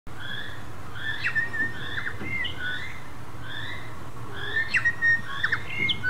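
Birds calling: one note repeated roughly every 0.7 seconds, with short whistles and sharp pips mixed in that come thickest near the end.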